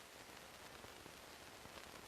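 Near silence: a steady faint hiss with a few tiny scattered clicks.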